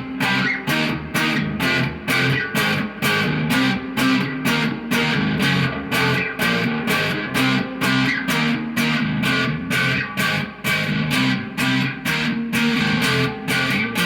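Electric guitar played through an amplifier, a steady rhythm of short strummed chords at about three a second.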